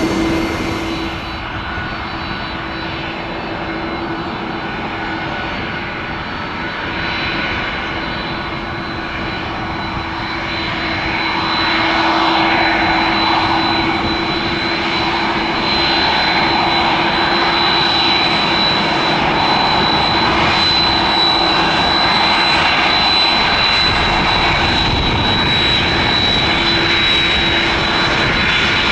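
Airbus A330-300 jet engines running as the airliner taxis, a steady high whine over a rushing engine noise. The sound grows louder about a third of the way in and stays up as the plane passes closer.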